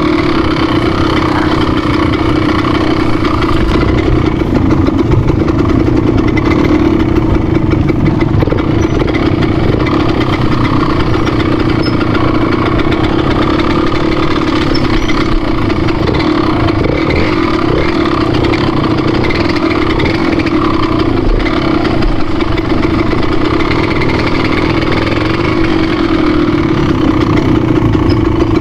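An engine running steadily at a near-constant pitch, loud throughout.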